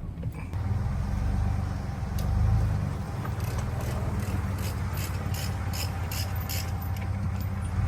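Car running, heard as a steady low rumble, rising briefly twice in the first three seconds. A series of light clicks runs from about three to seven seconds in.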